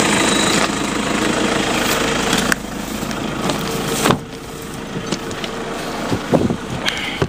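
Car engine running, heard from inside the cabin as a steady rumble, with a couple of sharp knocks about two and a half and four seconds in.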